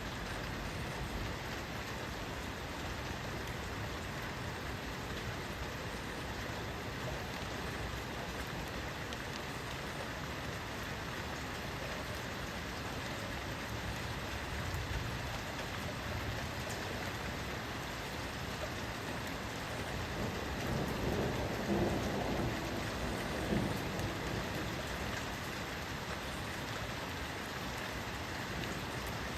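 Steady rain falling, an even hiss. About two-thirds of the way through, a low rumble swells for a few seconds and fades.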